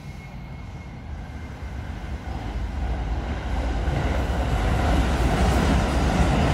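JR 211 series electric multiple unit rolling slowly alongside the platform. The rumble of its wheels and running gear grows steadily louder.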